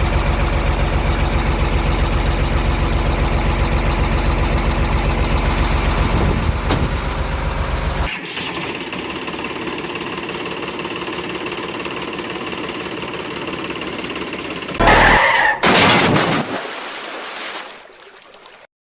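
A vehicle engine running with a rapid, even chugging, dropping to a quieter steady run about eight seconds in. Near the end come two loud bursts of noise a second apart, then the sound fades away.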